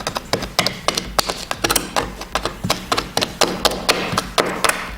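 Rapid, irregular metal taps and clicks of a hand scraper being worked against a stuck, painted-over window seal in a car's body, several strikes a second.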